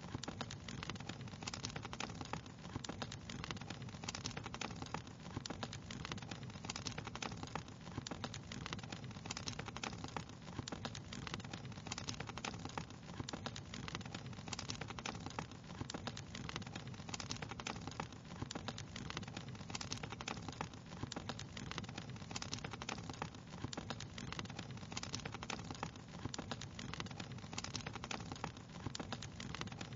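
Wood fire crackling steadily, with many small irregular pops and snaps over a low steady rumble.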